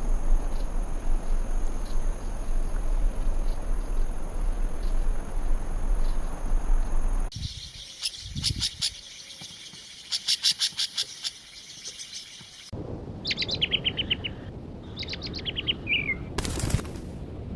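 Wild birds singing in an edited sequence. A steady rushing background with two high continuous tones changes abruptly to a rapid, chattering trill of high notes. That in turn gives way to two phrases of notes stepping down in pitch. Near the end comes a brief, sudden loud burst of noise.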